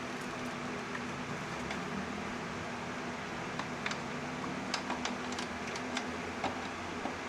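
Steady hum and hiss of a fan running in a small room, with a scatter of light clicks and ticks in the second half as engine parts are unclipped and handled.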